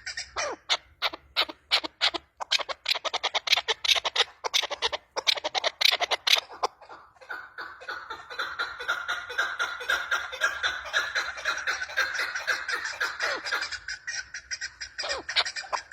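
Female chukar partridge calling: a fast series of short clucking notes that run together into a rapid, continuous chatter for several seconds in the middle, then break up into separate notes again near the end.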